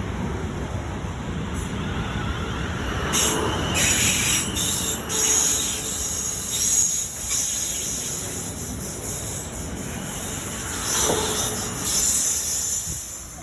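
Passenger train running along the line with a steady low rumble, plus bursts of high-pitched hiss and squeal from the wheels and brakes about three to five seconds in and again near the end.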